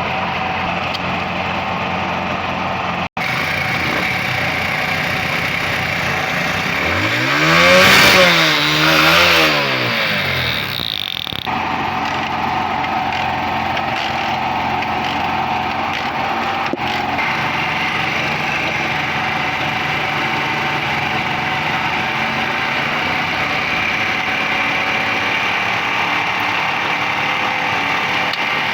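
Honda CD70 single-cylinder four-stroke motorcycle engine idling steadily, revved up twice in quick succession partway through and then settling back to idle, on a check for tappet (valve clearance) noise. The sound breaks off abruptly for a moment near the start and again just after the revs.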